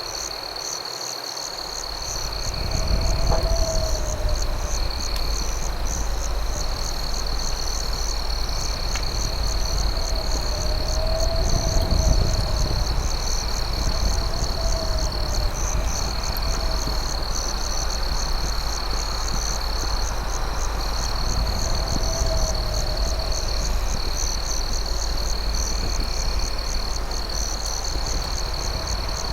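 Night chorus of crickets: a steady high trill alongside a faster pulsing chirr. A lower croaking call rises and falls every couple of seconds, over the steady low rumble of a campfire with an occasional faint crackle.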